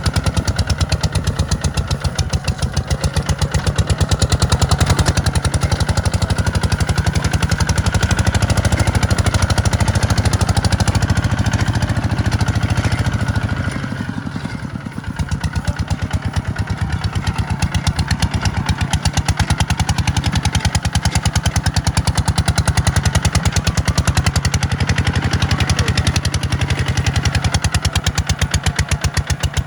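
Farm tractor's diesel engine running steadily while ploughing a sandy field, with a fast even firing pulse. It eases off briefly about halfway through, then picks back up.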